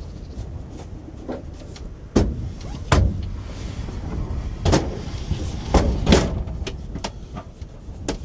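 Strong wind rumbling low and steadily, with about seven sharp knocks and thumps at uneven intervals, the loudest about three seconds in and about six seconds in.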